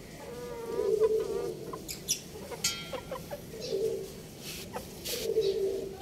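Birds making low calls, three of them about a second long, with short higher chirps and a few scratchy sounds between them.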